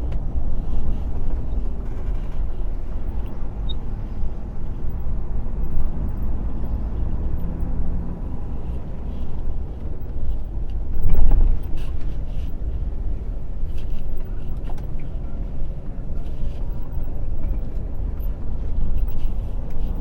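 Heavy lorry on the move: steady engine and road rumble, with a brief louder swell about eleven seconds in.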